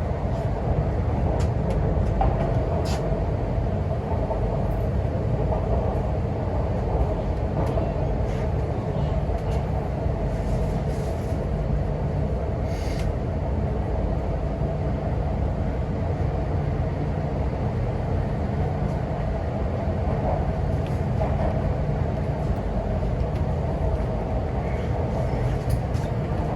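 Cabin noise of an MTR Q-train underway between stations: a steady low rumble of wheels and running gear, with a few brief high-pitched squeaks about three and thirteen seconds in.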